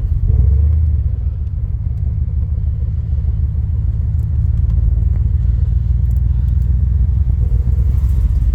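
Corvette engine and exhaust running steadily while the car is driven, a continuous deep sound that swells slightly about half a second in.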